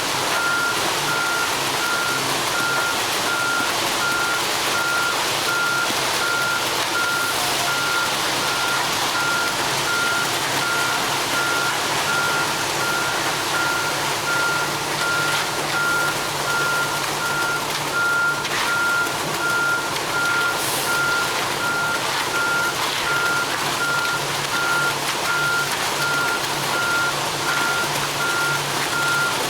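Ready-mix concrete truck's backup alarm beeping in an even, unbroken series, over the steady hum of its diesel engine running.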